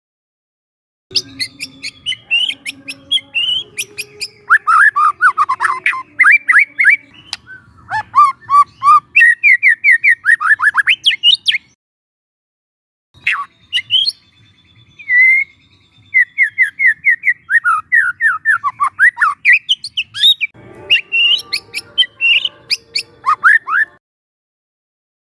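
Young white-rumped shama singing: rapid runs of sweeping whistled notes and chattery phrases, broken by short silent pauses about a second in, around halfway, and near the end.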